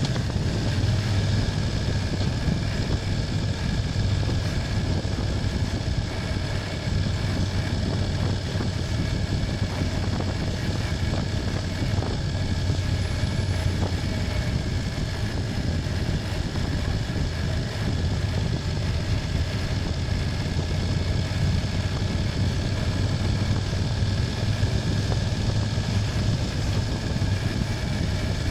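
BMW F800GS parallel-twin engine running at a steady, even pace, with road and wind noise underneath.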